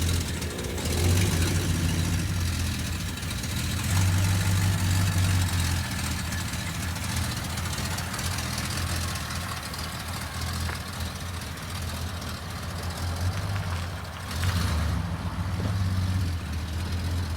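1973 VW Super Beetle's air-cooled flat-four engine running steadily after its first start in years, swelling in revs a few times.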